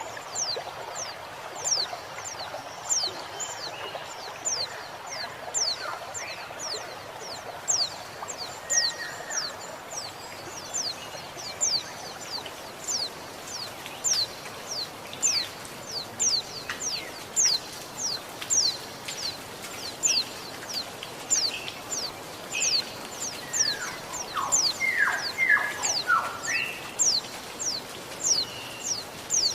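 Female white-eye (pleci) calling: a long, regular series of short, high notes, each falling in pitch, about two a second. Flowing water hisses underneath, and another wild bird gives a few lower, falling calls near the end.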